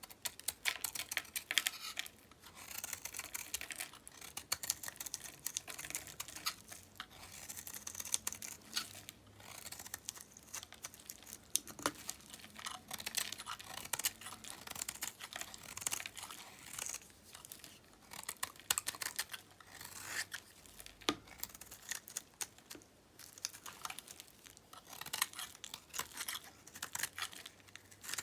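Knife cutting through dry, dyed bar soap: a dense, continuous run of crisp crackles and snaps.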